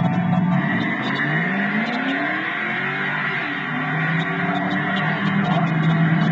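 Chevrolet Camaro Z28's LS1 V8 launching hard down a drag strip, its pitch rising in sweeps as it accelerates through the gears over a steady low engine drone.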